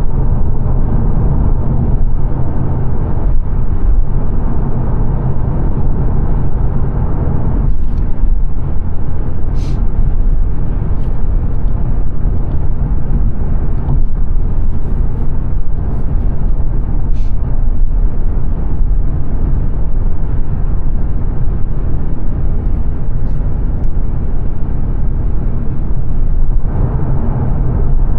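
Steady road and tyre rumble with engine noise inside a 2022 Mazda 3 saloon's cabin, cruising at motorway speed. A few faint brief clicks come partway through.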